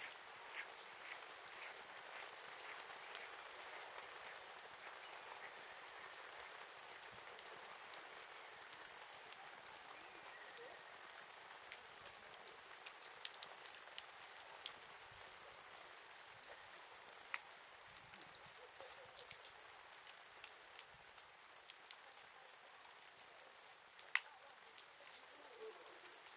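Wood campfire crackling, irregular sharp pops over a soft hiss, with one louder pop near the end.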